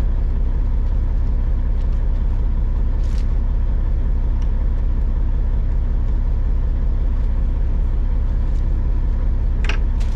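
Diesel dump truck engine idling steadily, with a brief higher-pitched sound near the end.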